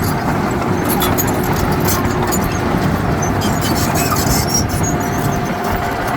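Heavy diesel earthmoving machinery running steadily under work, with scattered light metallic clicks and a faint high steady tone coming in about two-thirds of the way through.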